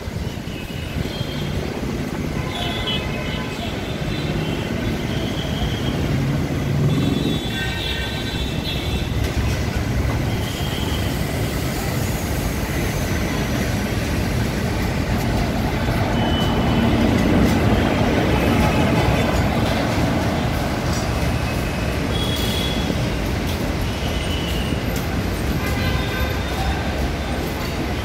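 WAP-4 electric locomotive and its express train rolling in along the platform: a steady rumble of wheels on rails that grows loudest about two-thirds of the way in as the locomotive passes, then the coaches rolling by.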